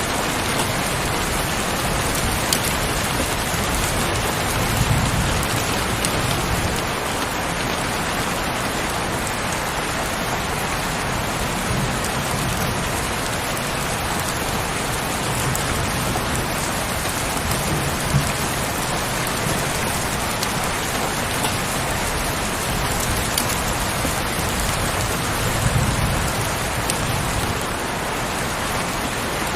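Heavy rain falling steadily as a dense, even hiss, with scattered sharper drop ticks. A few soft low rumbling swells come and go about every six or seven seconds.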